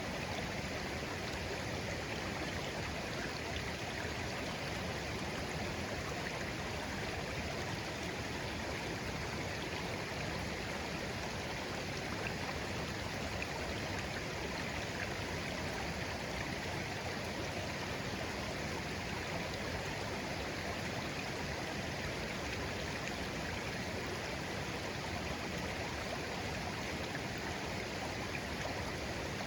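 Babbling brook of clear water flowing gently and steadily, an even rushing with no pauses or changes.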